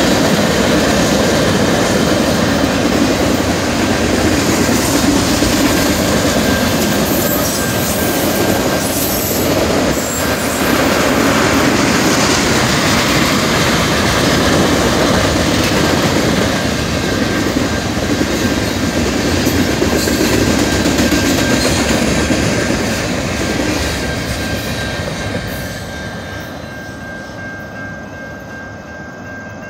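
Norfolk Southern mixed freight train's cars rolling past a grade crossing, with steel wheels clattering and rumbling over the rail joints. The noise fades over the last few seconds as the end of the train goes by, leaving the crossing signal's steady ringing tone.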